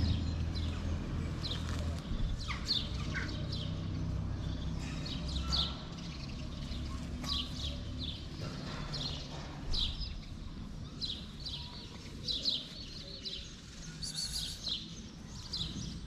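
Small birds chirping, many short high chirps repeating throughout, over a low steady rumble.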